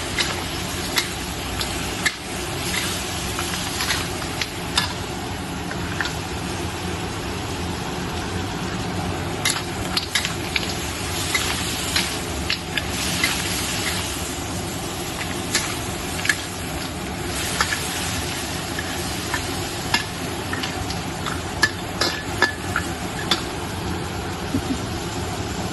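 Black sea crab being stir-fried in a pan: a steady sizzle with frequent sharp clacks of a spatula stirring and striking the pan.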